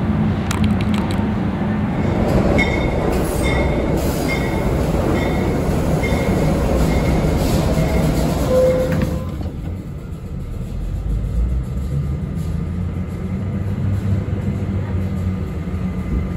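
A subway work train hauling diesel-electric locomotives rumbles past through an underground station, with steel wheels on rail. In the first half a row of short high-pitched squeaks repeats a little more than once a second. About nine seconds in the sound drops to a quieter, steadier rumble.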